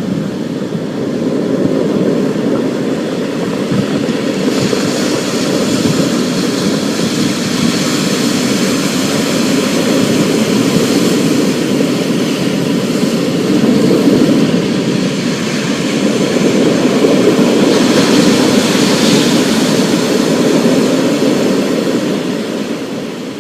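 Thunderstorm: a steady rain hiss over a deep, rolling rumble of thunder that swells and eases, fading down near the end.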